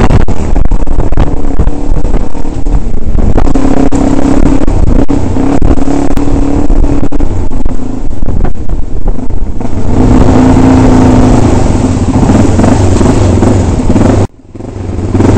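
Trail-bike engine running under load on a rough dirt track, heard close up from a camera mounted on the bike, its note wavering with the throttle. Near the end the sound cuts out almost completely for a moment, then fades back in.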